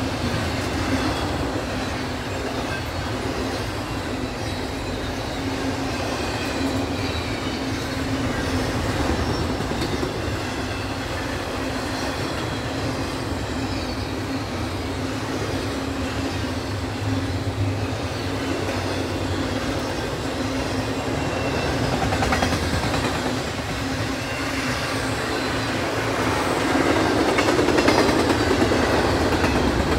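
Double-stack intermodal freight train rolling past close by: the steady noise of its cars' steel wheels running on the rails, growing louder near the end.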